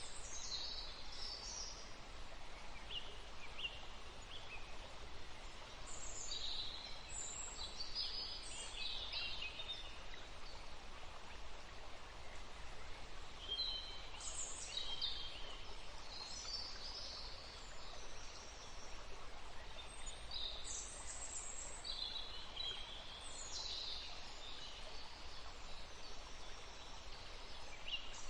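Small birds chirping in scattered bursts of short, high calls, several overlapping at times, with gaps of a few seconds between bursts, over a steady background hiss.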